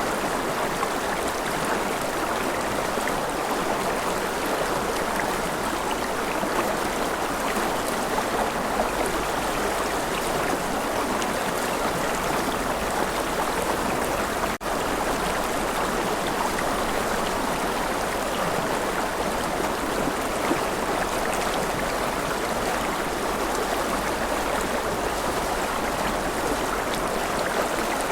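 River water flowing steadily, a constant rushing babble with one momentary drop-out about halfway through.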